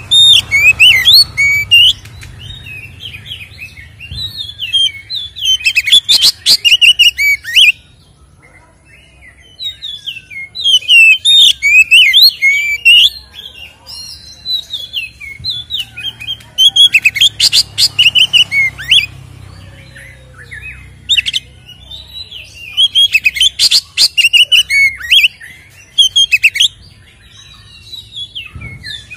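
Oriental magpie-robin (kacer) singing loud, fast, varied song of whistled, sliding notes mixed with harsh rattles. It comes in several long bouts with short pauses between them.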